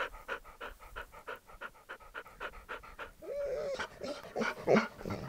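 Dog panting quickly and evenly, about three to four breaths a second, then a short rising whine about three seconds in, followed by a few louder breathy huffs near the end.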